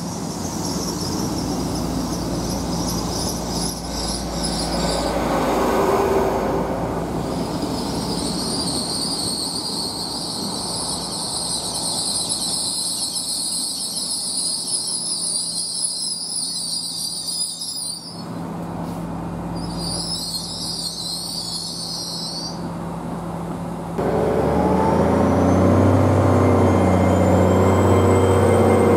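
GWR Hitachi Intercity Express Train passing close by on the rails, a steady rumble with a wavering high wheel squeal that comes and goes. About 24 s in, a louder, deeper engine drone takes over, with a rising whine near the end.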